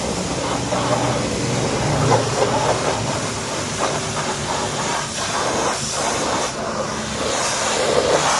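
Car wash equipment at work: a steady hiss of spray or air against the car, with surges and a low machine hum underneath.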